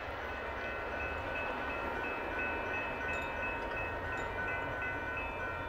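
Double-stack freight train rolling past with a low steady rumble, with high metallic ringing tones that come and go over it.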